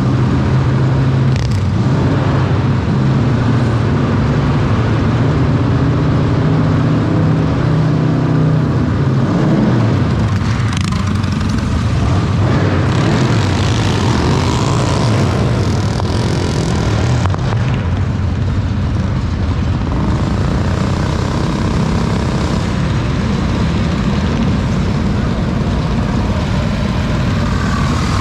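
Mini bike small engines running: a steady engine note for about the first nine seconds, then a rougher sound that keeps changing in pitch.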